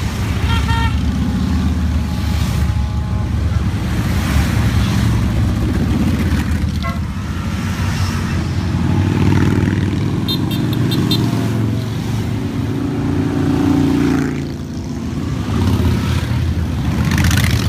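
A steady stream of motorcycles riding past, their engines running loud and swelling and easing as each group goes by. Short horn toots sound a few times: near the start, about seven seconds in, and a quick pulsing beep around ten seconds in.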